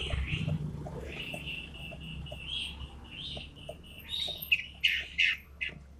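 Toed matahari songbird calling loud and sharp: a chattering run of high notes, then several sharp, louder calls in the second half.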